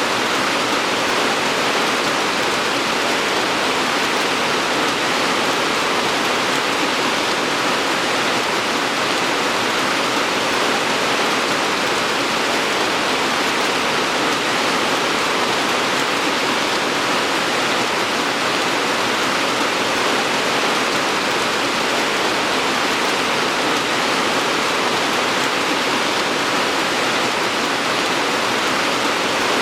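Steady, heavy rain falling in a dense, even hiss, with no distinct drops or thunder.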